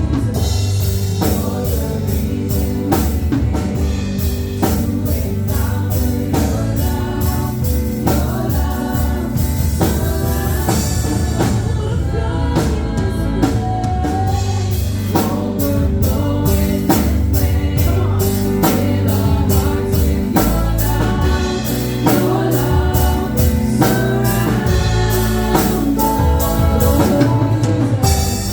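Gospel worship music: voices singing together over a band with drum kit and bass, keeping a steady beat.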